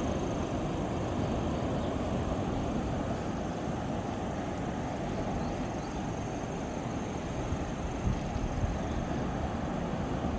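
Steady rushing wind and sea surf, heavy in the low end, with wind buffeting the microphone.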